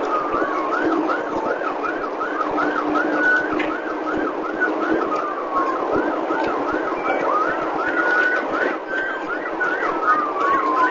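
Police car siren on a fast yelp, sweeping quickly up and down in pitch about three times a second, with a slower falling tone now and then on top. A steady vehicle rumble sits underneath.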